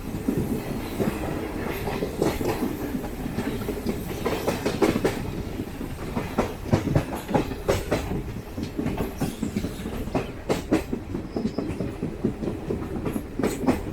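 Diesel-electric multiple unit (DEMU) passenger train running, heard from on board: a steady low rumble with the wheels clacking over rail joints, the clacks coming thicker and faster near the end.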